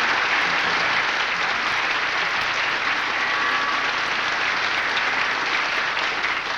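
Studio audience applauding, steady and full throughout.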